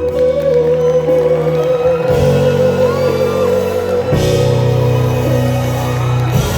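Live band playing the closing passage of an R&B ballad in a concert hall. A long held note sits over chords that change about every two seconds.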